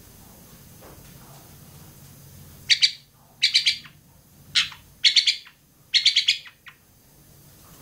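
Long-tailed shrike (cendet) singing: five short bursts of rapid, repeated high notes in about four seconds, beginning almost three seconds in.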